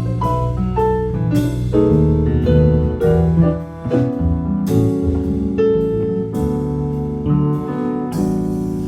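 Jazz piano solo in a live quartet, chords and melody over bass and light drums.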